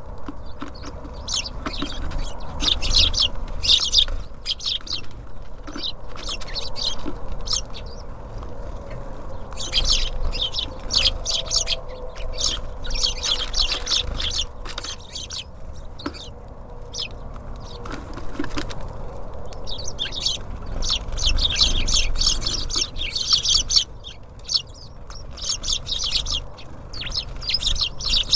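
Small songbirds at a feeder chirping: short, quick calls come in dense bunches, broken by a few brief pauses. A low rumble runs underneath.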